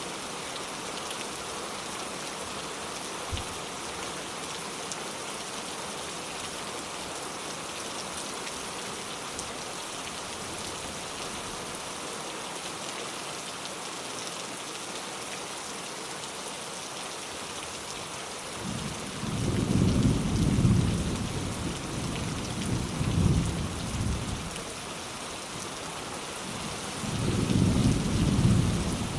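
Steady rain falling, then rolling thunder from about two-thirds of the way in: a long low rumble that swells and fades, and a second rumble near the end.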